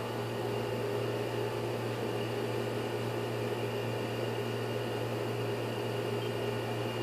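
A motor running steadily: a constant low hum with a few fixed tones above it, unchanging throughout.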